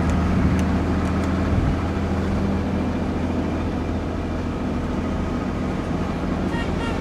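Truck engine running with a steady low drone; one note in the engine sound drops out about one and a half seconds in.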